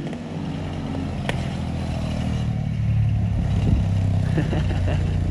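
Small 150cc four-wheeler (ATV) engine running steadily, getting a little louder around the middle. A single sharp click about a second in.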